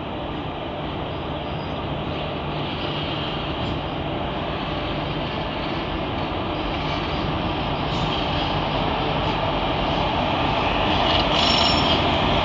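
An Indian Railways electric locomotive-hauled train approaching along the track: a steady rumble of wheels on rail that grows gradually louder as it nears, with higher-pitched tones joining in the last couple of seconds.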